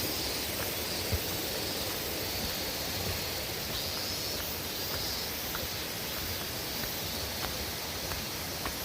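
Steady rushing of stream water near a waterfall, with a faint high chirp repeating about once a second and a few soft ticks.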